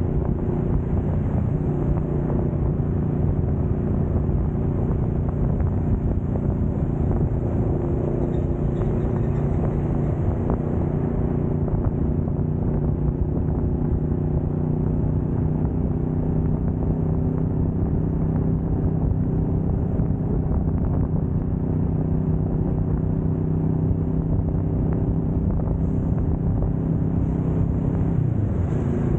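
Kawasaki Vulcan S 650's parallel-twin engine running at steady cruising revs on the move, over a haze of road and wind noise. Near the end the engine note dips briefly.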